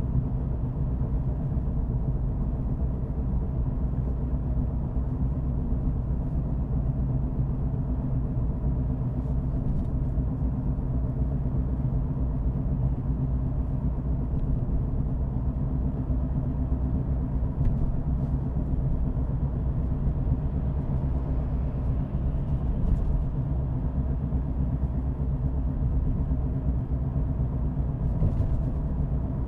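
Car driving at a steady pace: an even, low rumble of engine and tyres on the road.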